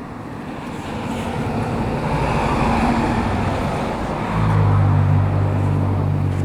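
Another motor vehicle going by: a rising road-noise hiss, then from a little past halfway a strong low steady engine hum.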